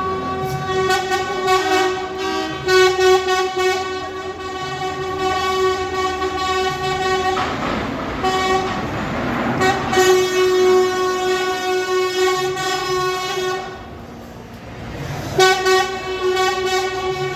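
Truck air horns sounding in long held blasts, with a break about halfway through, where a rushing noise takes over, and a brief dip near the end.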